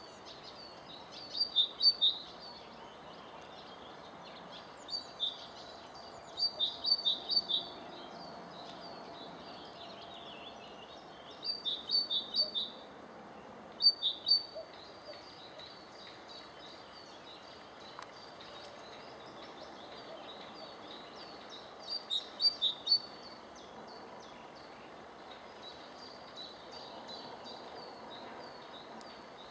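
A songbird singing short phrases of a few loud, high chirps every few seconds, with fainter chirping between the phrases, over light steady background noise.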